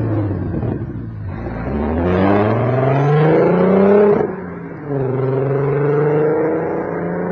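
VW Golf Mk4's VR6 engine and exhaust revving: the revs dip, climb steadily for a couple of seconds, fall away sharply about four seconds in, then hold at a lower, steadier note.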